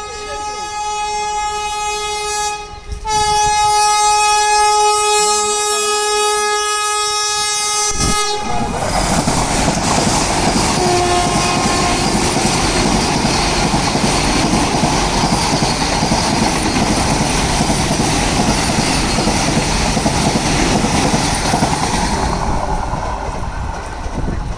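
Vande Bharat Express trainset sounding its horn: a held blast that breaks off briefly about three seconds in and comes back louder for about five more seconds. Then the train rushes past with a loud steady rumble and rattle of wheels on rails, easing slightly near the end.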